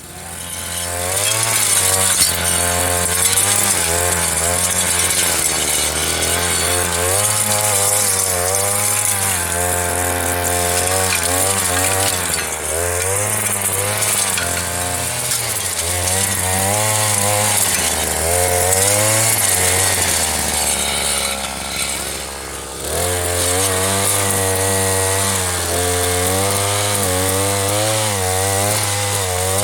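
Earthquake MC33 mini tiller's small two-stroke engine running under load as its tines churn manure into soil, its pitch wavering up and down. About 21 seconds in it drops toward idle, and it revs back up about 23 seconds in.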